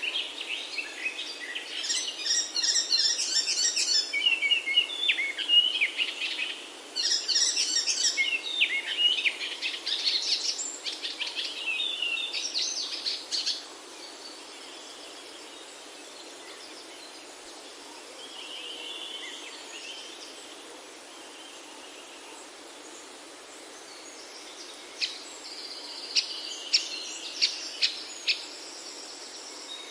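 Songbirds singing in a busy chorus of chirps and trills for about the first half, then fewer, fainter calls, with several sharp chirps near the end, over a steady background hiss.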